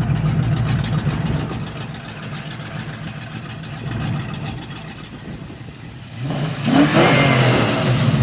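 Car engine running, then revving hard from about six seconds in, rising in pitch and getting much louder as it accelerates away.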